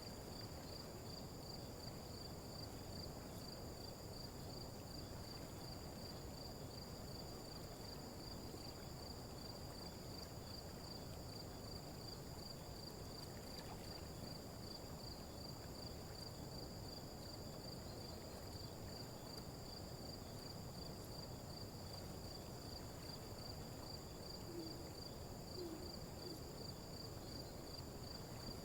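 Faint nature soundscape of insects chirring steadily in a high, rapidly pulsing trill over a soft low hiss. Near the end come two brief low hoots, about a second apart.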